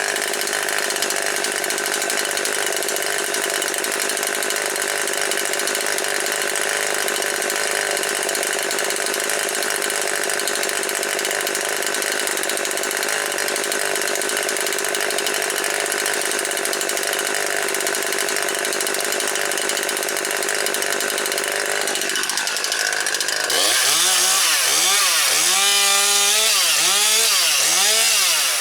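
Husqvarna 540XP Mark III two-stroke chainsaw running at high revs and cutting storm-downed wood, holding a steady pitch. Near the end it gets louder and its pitch dips and recovers about once a second.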